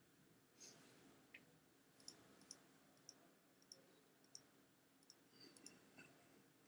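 Faint computer mouse clicks, a dozen or so at irregular intervals, over quiet room tone.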